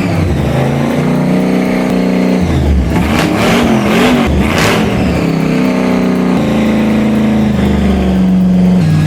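Engine of a Mad Max-style custom car running and being revved, its pitch stepping up and down, with a wavering rev and two sharp blasts in the middle.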